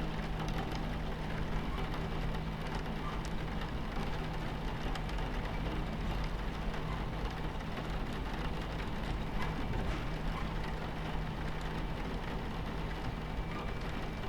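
Steady low rumble of a moving train with an even hum, mixed with rain pattering on the carriage window. The sound holds steady throughout, with scattered small drop ticks.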